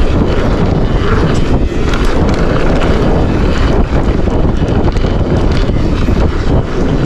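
Wind rushing over an action-camera microphone on a mountain bike riding downhill, with tyre rumble and scattered knocks and rattles from the Forbidden Dreadnought bike over rough trail.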